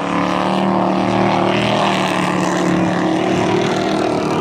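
Several dirt-track race trucks' engines running together at racing speed, a steady loud drone of overlapping engine notes.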